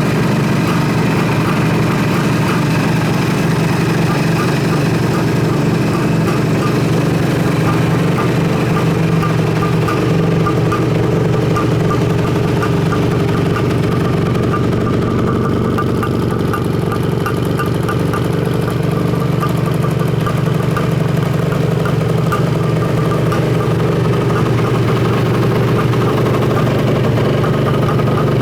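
Suzuki GT550's air-cooled two-stroke inline-three engine idling steadily.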